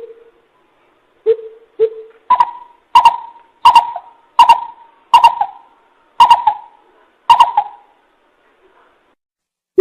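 Coucal giving a series of hooting calls. First come three lower hoots, then seven higher hoots that come gradually further apart, each trailing off briefly.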